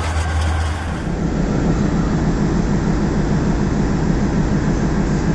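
Diesel-hauled express train in motion: a loud, steady rumble and drone, with the sound changing about a second in.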